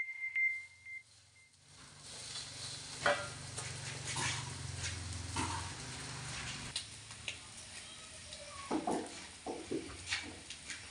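Tempoyak (fermented durian) frying in an aluminium wok, a faint sizzle with a metal spatula scraping and tapping against the pan. A few short louder sounds come near the end.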